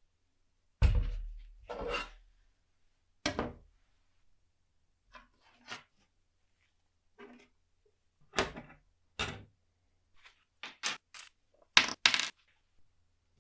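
Small hard parts and tools being handled and set down on a work surface: a run of separate clinks and clatters at uneven intervals, the loudest a quick cluster near the end.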